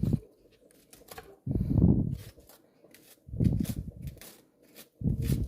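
Scraping the seedy insides out of halved zucchini, three separate scraping strokes a couple of seconds apart.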